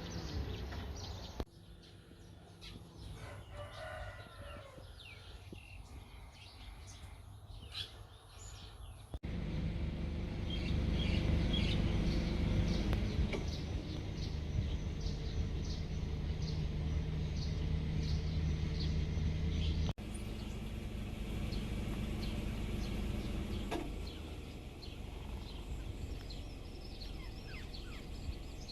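Outdoor village ambience: a rooster crows, small birds chirp, and a steady low hum runs underneath. The background changes abruptly a few times.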